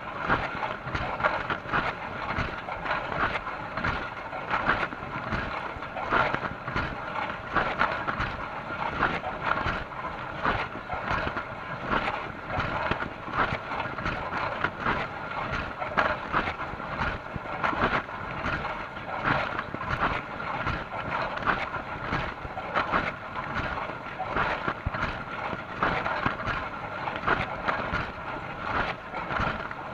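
Dishwasher running a wash cycle: water spraying and splashing inside the tub in a continuous rush with irregular splashes, over a faint steady tone.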